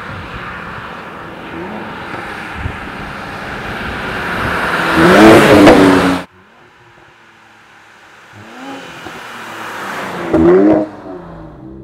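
Mercedes-AMG C43's twin-turbo V6 accelerating hard, building to a loud peak about five to six seconds in and then cutting off abruptly. After a quieter stretch it builds again to a brief loud burst near the end.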